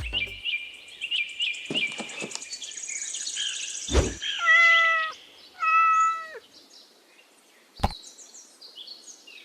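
A cat meows twice, each call about two-thirds of a second long and dropping in pitch at the end. Before the meows there is a run of quick high bird chirps and a single thud.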